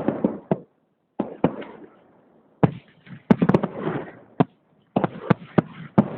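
Fireworks salute going off: a string of sharp bangs in clusters, with crackling in between and short pauses between volleys.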